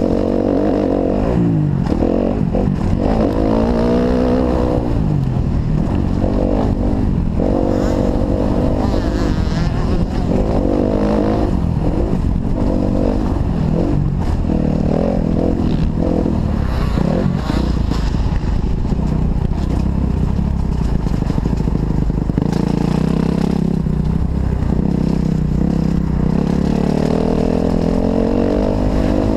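Kawasaki KX250F's four-stroke single-cylinder engine revving up and down as the motocross bike is ridden, its pitch repeatedly rising under throttle and dropping off.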